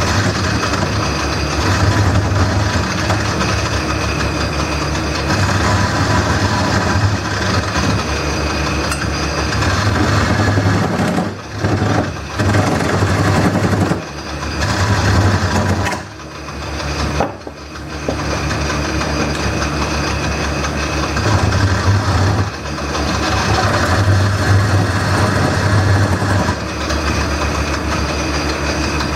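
Wood lathe running with a gouge cutting into a spinning wooden bowl; the scraping cut noise comes and goes over the steady motor hum, dropping out briefly several times as the tool comes off the wood.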